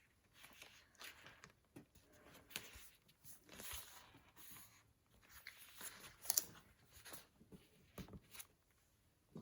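Faint rustling of paper and craft materials being handled, with scattered light clicks and taps, the sharpest about six seconds in.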